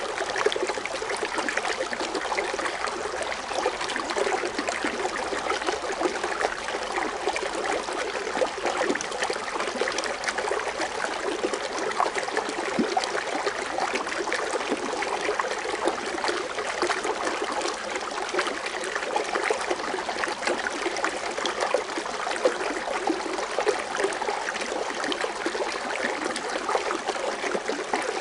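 Water fountain splashing and bubbling in a steady, unbroken stream.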